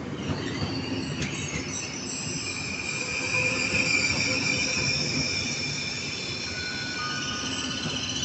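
Suburban electric train of two coupled multiple units rolling with a low rumble, its wheels breaking into a high-pitched squeal about two seconds in: several steady screeching tones at once, loudest a couple of seconds later and then easing slightly.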